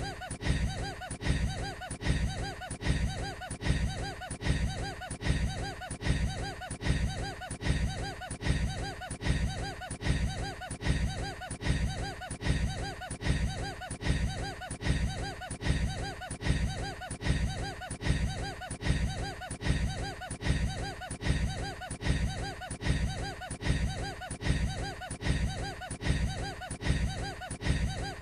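A man's short, odd laugh, looped over and over at a steady rate of a little more than once a second.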